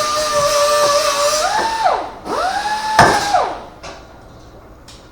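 A handheld electric power tool runs with a steady high whine, then winds down about two seconds in. It is squeezed on again briefly, with a sharp knock about three seconds in, and spins down.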